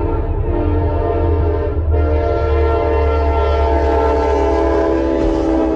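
Locomotive air horn blowing a loud, steady chord of several notes, with the low rumble of the train underneath. The horn breaks briefly about two seconds in and sounds again.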